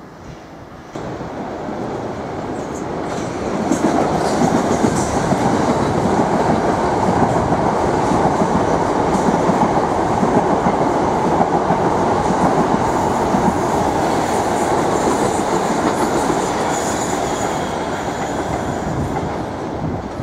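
Southern Class 377 Electrostar electric multiple unit passing, its wheels clattering on the track. The sound builds over the first few seconds, holds loud, and eases off near the end as the train draws away.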